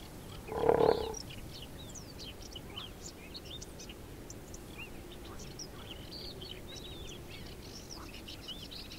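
Wild birds chirping and calling in many short, high notes over a steady outdoor background, with one louder short sound about a second in.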